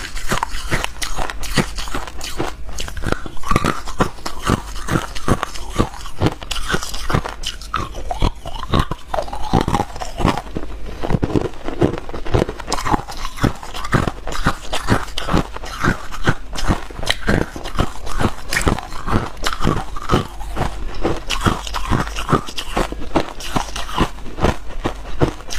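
Ice being bitten and chewed: a continuous run of sharp, crisp crunches, several a second, without a break.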